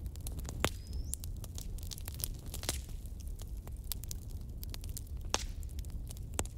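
Wood fire crackling: a dense run of sharp snaps and pops over a low steady rumble, with a few louder cracks. About a second in there is a short rising whistle.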